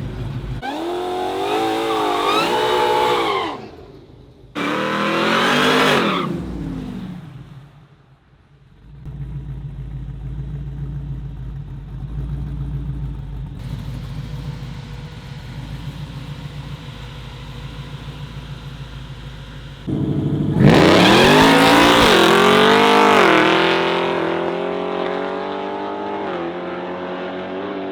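Race car engines at full throttle. Early on there are two short runs of revving up and winding down. Through the middle a steady low engine sound continues. About twenty seconds in a louder run starts suddenly; its pitch climbs, drops back at a gear change, then climbs again as it fades.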